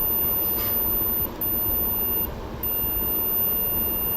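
A multimeter's continuity beeper sounds a steady high tone, showing the power-cord wire under test is unbroken. The tone breaks off briefly about two seconds in, over a steady background hiss.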